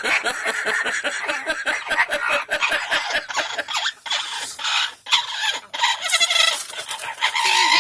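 A parrot making a rapid run of repeated clucking, chattering calls, several a second, as part of its courtship or mating display.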